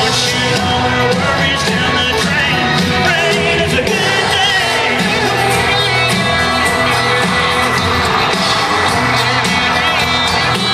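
A country band playing live at full volume, with singing and crowd shouts mixed in.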